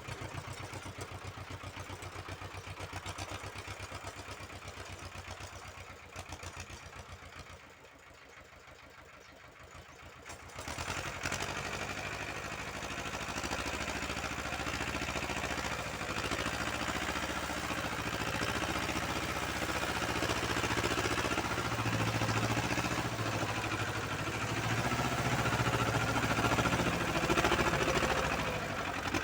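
Uralets tractor engine running with a steady pulse, dropping lower for a few seconds, then picking up and running louder from about eleven seconds in, as when it works the rotary tiller.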